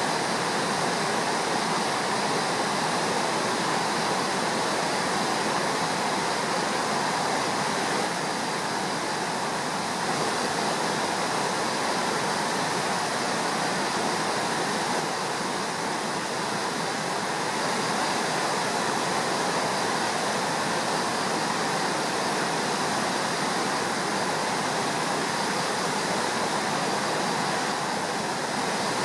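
Steady, even rush of a river in flood, its muddy water running high and fast and throwing up spray.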